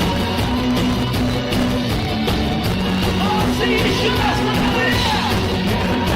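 Live rock band playing loud with a steady beat, with voices singing and shouting over the music in the second half.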